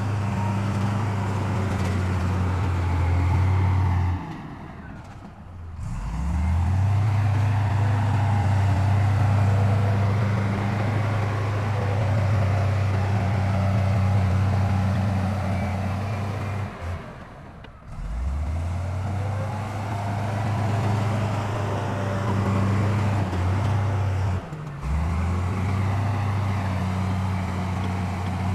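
Heavy diesel engines of earthmoving machinery running steadily with a deep, even engine note. Three times, around 5, 18 and 25 seconds in, the sound drops away and the engine note climbs back up.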